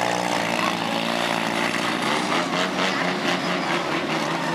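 Demolition derby car engines running together at steady speed, with a run of short clatters and knocks from about halfway through.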